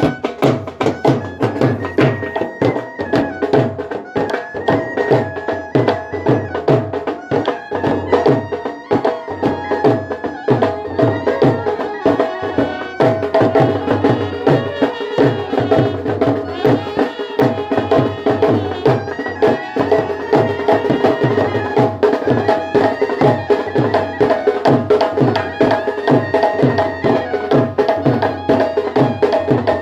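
Brass band playing a traditional folk tune, with held brass notes and a melody over a steady, fast drum beat.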